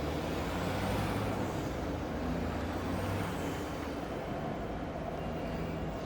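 City ambience: a vehicle's low rumble over a steady hiss, with two faint high whines that rise and fall, about two seconds apart, in the first half.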